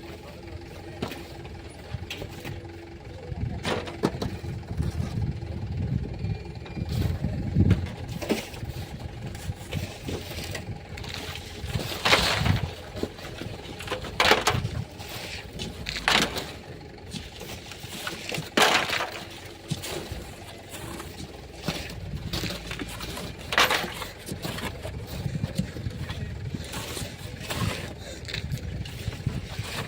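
Shovel digging into sand and throwing it, a sharp scrape every few seconds, over a low engine rumble.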